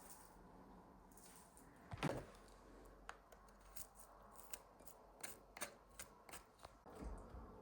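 Faint clicks and taps of small objects being handled, with one louder knock about two seconds in, over near silence.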